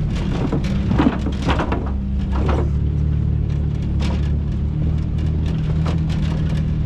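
Off-road vehicle's engine running steadily at low speed, with scattered knocks and crunches from the tyres and body as it crawls over a rocky trail; the loudest knock comes about a second in.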